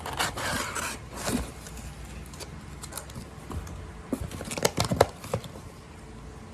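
Rustling followed by a series of sharp clicks and taps: small objects being handled, with a quick cluster of clicks about five seconds in.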